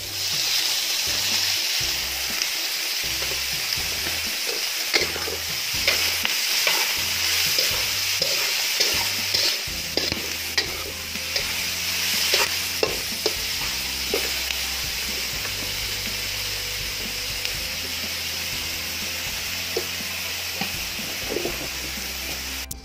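Shelled cockles and sliced onions sizzling in hot oil in a wok. A metal spatula scrapes and clacks against the pan in irregular strokes as they are stirred.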